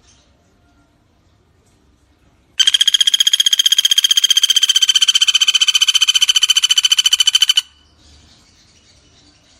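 Common flameback woodpecker (pelatuk bawang) giving one long, rapid rattling call of about five seconds at a steady pitch, starting a couple of seconds in and cutting off sharply. A faint high hiss of insects lies under it.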